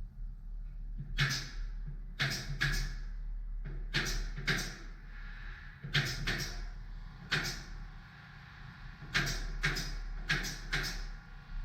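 Pneumatic nail gun (tacker) firing nails into wood framing: about fourteen sharp shots at irregular intervals, several in quick pairs or triplets.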